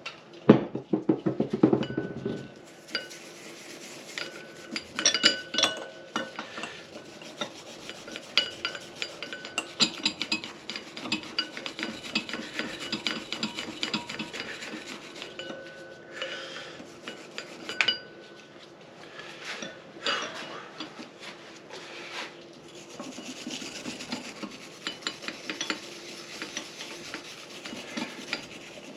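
Hand scrubbing and scraping of grimy motorcycle engine parts: rapid, rough rubbing strokes with occasional light metal clinks, heaviest in the first two seconds.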